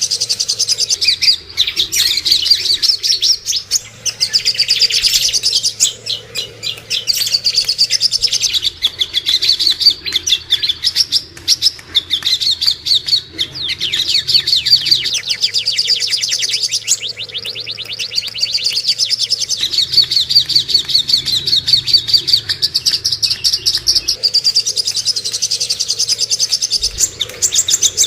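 Cucak kombo and songok bird calls from a masteran training recording: rapid, high chirping trills repeated with only short breaks.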